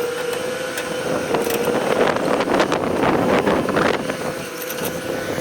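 JCB 3DX backhoe loader's diesel engine running steadily with a constant hum, under irregular knocks and scrapes, most of them in the middle.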